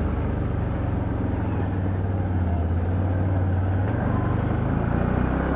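Can-Am Outlander ATV engine running steadily while riding the trail, a low drone whose pitch drops slightly about four seconds in.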